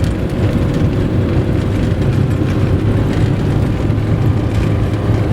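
A vehicle driving on a very rough road, with steady engine and road rumble.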